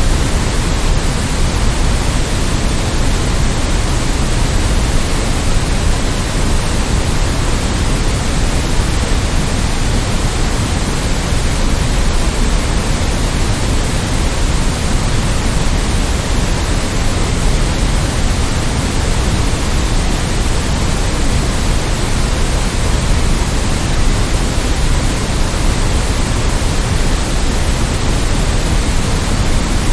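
Steady synthetic noise of the kind played for sleep: an even, unchanging hiss with a full low end, no rhythm and no events.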